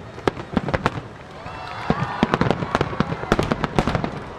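Starmine firework barrage: aerial shells bursting in rapid succession, many sharp bangs a second, growing denser and louder about halfway through.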